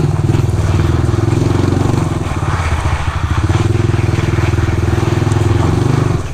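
Small off-road motorbike engine running at steady, fairly high revs close by, its rapid firing pulses even throughout, dropping off right at the end.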